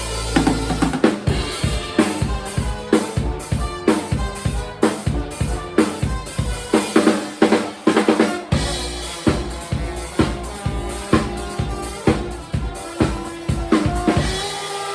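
Live band playing, with the drum kit driving a fast, steady beat of kick, snare and rimshot hits over bass and sustained chords. About a second before the end, the drums and bass drop out and a held chord remains.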